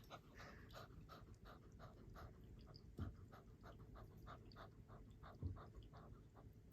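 Scottish fold kitten panting with quick, faint breaths about four a second, out of breath after play. Two low thumps come about three and five and a half seconds in.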